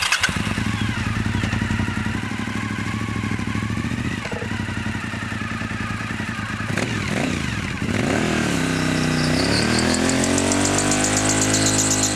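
2003 Suzuki SV1000S's 90-degree V-twin running with an even lumpy throb. About eight seconds in it revs up and down, then holds higher revs, and a pulsing hiss builds as the rear tyre starts to spin for a burnout.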